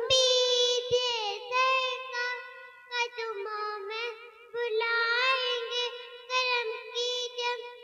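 A young girl singing a naat, an Islamic devotional poem, in a high child's voice with long held and gliding notes.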